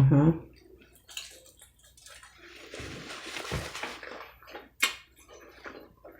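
Close-up eating sounds: wet chewing of fried takeout food, with a few sharp mouth smacks.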